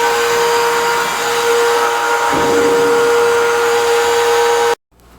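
Vacuum cleaner running steadily with a high whine, sucking dirt and debris out of a furnace return air duct. It cuts off abruptly near the end.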